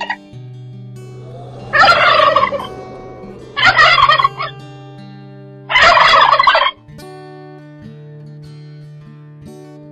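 Turkey gobbling three times, each gobble a loud, rapid rattling call about a second long.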